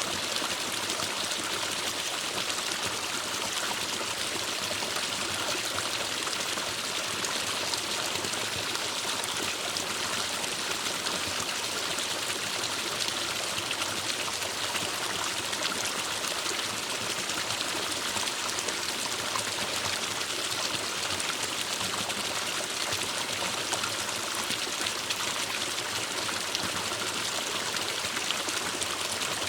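Forest stream water flowing and burbling steadily.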